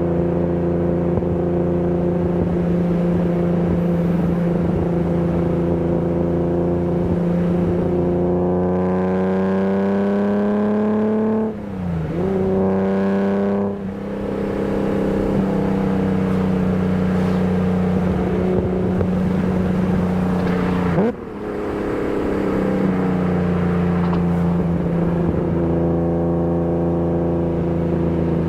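BMW E30 323i's 2.3-litre straight-six engine under way at a steady pitch. Partway through it revs up and drops twice in quick succession, as it does across gear changes. Later the note dips briefly and then settles back.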